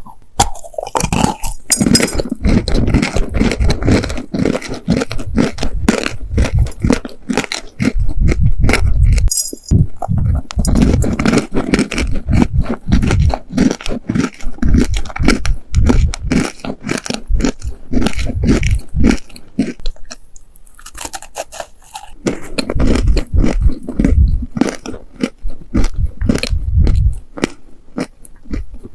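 A person chewing dry, sandy baked clay cookies close to the microphone: crunching at about two or three bites a second, with two brief pauses.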